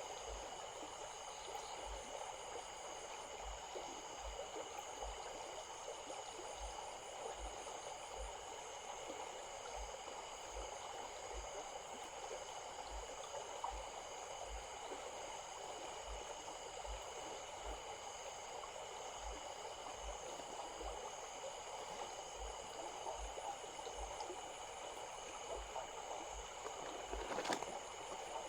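Small stream flowing steadily with a soft rushing babble, over a few steady high-pitched tones; a couple of sharp clicks near the end.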